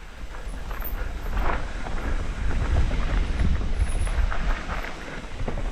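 Wind buffeting the microphone over a low rumble, with scattered clicks and rattles from an electric mountain bike rolling over rough, rocky trail.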